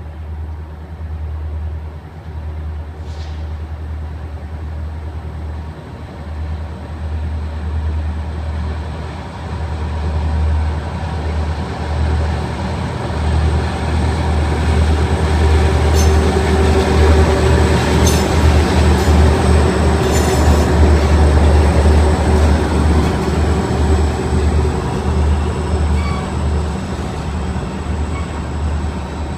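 Ferromex train passing, a heavy rumble that builds to its loudest past the middle and eases off slightly near the end. A few sharp clicks come through around the loudest part.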